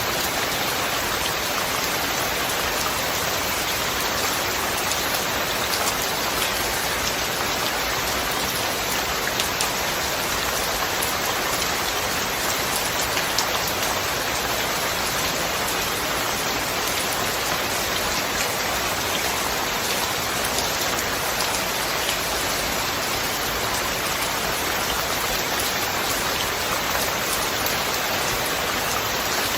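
Steady rain falling, a dense even hiss of drops with faint scattered patters.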